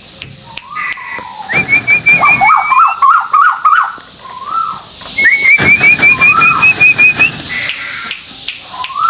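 Song of a white-billed tuwu (tuwu paruh putih) played as a lure recording: fast runs of short, rising whistled notes, about eight a second, broken by lower slurred whistles. Three such phrases come one after another, the longest in the second half.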